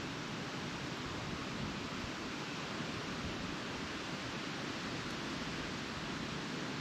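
Steady wind noise with no distinct events.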